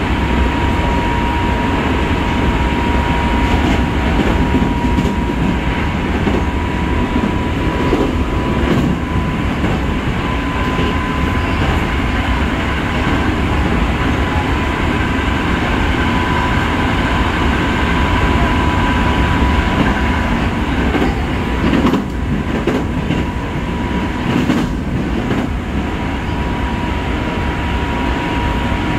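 Hankyu 5300 series electric train running at speed, heard from inside the car: a steady rumble of wheels on rail with a continuous high whine over it. Two short clattering knocks come about three quarters of the way through.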